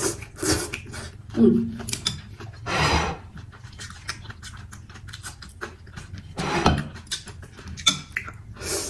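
Close-up eating sounds of a bowl of mì Quảng noodles: chewing and mouth noises, with several louder bursts of slurping about half a second long and small clicks from the utensils in between.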